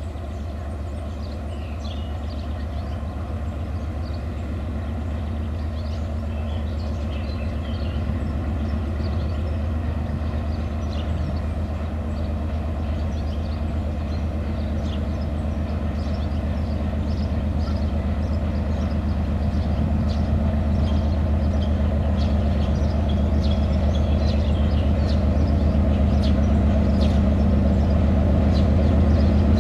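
M62 diesel locomotive's two-stroke V12 diesel engine running, a steady low drone that grows gradually louder.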